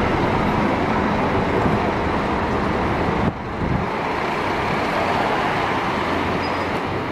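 Scania double-decker bus running, with steady engine and road noise; the sound drops abruptly about three seconds in and then carries on.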